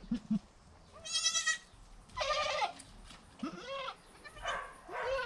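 Goats bleating: a few short low grunts at the start, then four bleats about a second apart, the first one high-pitched, from a doe and her newborn kids.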